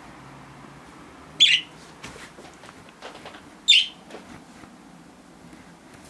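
A budgerigar gives two short, high calls about two seconds apart, one about a second and a half in and one near four seconds in. These are contact calls to a flock mate separated from it.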